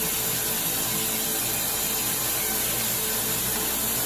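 Steady rush of running water, as when hair is being rinsed under a tap or shower.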